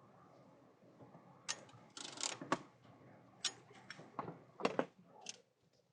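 A run of irregular, sharp clicks and light knocks inside a car cabin, over a low hum.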